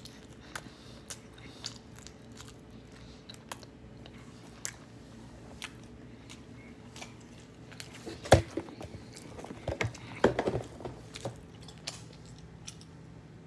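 Close-up chewing and biting of pizza crust, with scattered crisp crunching clicks. About eight seconds in, a burst of louder knocks and rustling.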